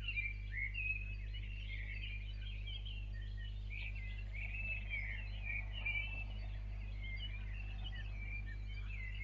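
Several songbirds chirping and twittering in a dawn chorus, over a steady low electrical hum.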